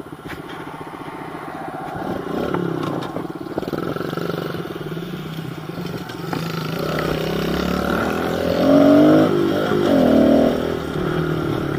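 Small pit bike engine running while riding along, revving up louder about two-thirds of the way through, then easing off again.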